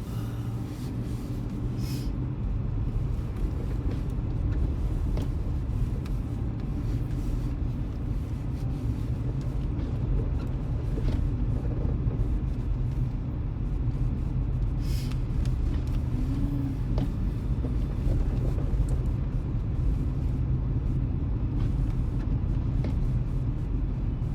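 Steady low rumble of a moving vehicle's engine and tyres, heard from inside the vehicle while it drives.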